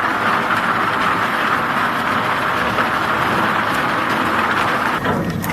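Steady, loud mechanical noise of a log debarking machine running as it strips bark. Near the end the noise changes abruptly and a few sharp knocks follow.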